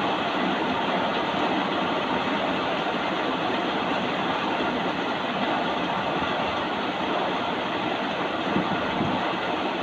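Steady rain falling, an even unbroken hiss and patter.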